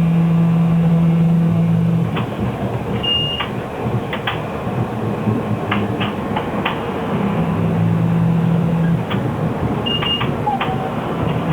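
Ride noise inside a Shanghai SK5105KGP trolleybus under way: a steady low electric hum from the drive that fades and returns, with scattered clicks and rattles. Two short high beeps sound, one about three seconds in and one near the end.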